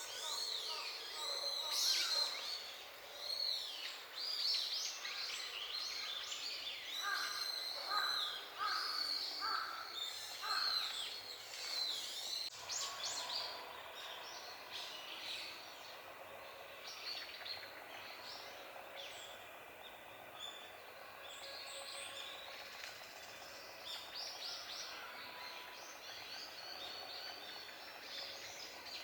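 Wild songbirds calling: many short high chirps and call notes, thick in the first half and sparser later, with a short series of evenly repeated lower notes about seven to eleven seconds in.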